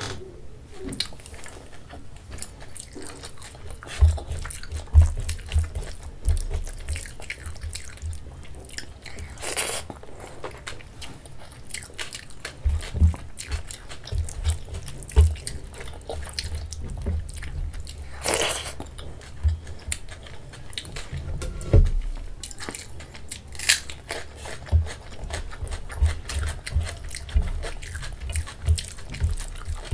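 Close-miked chewing and wet mouth sounds of a person eating rice mixed with kadhi by hand. Sharp smacks and clicks come at irregular moments, over soft low thuds.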